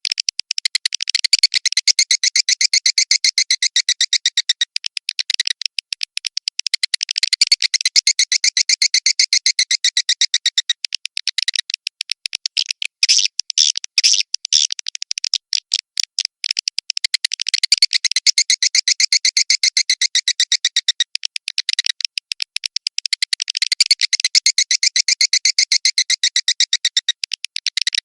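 Swiftlet lure call: rapid, clicky chirping of swiftlets, many chirps a second, in phrases several seconds long with short breaks between them. It is the kind of sound played to draw swiftlets into a nesting house.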